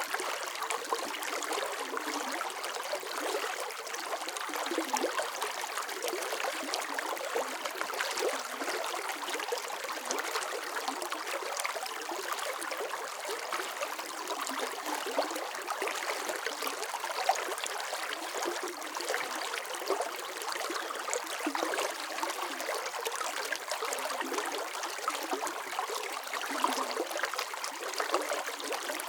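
Running water flowing steadily, a splashy, trickling rush with little deep rumble.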